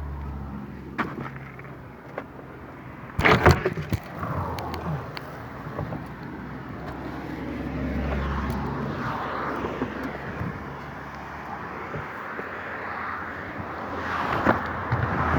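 Road traffic passing over a bridge deck, heard from inside the bridge: a steady low hum under a rumble that swells and fades as vehicles cross. A quick cluster of knocks comes about three seconds in.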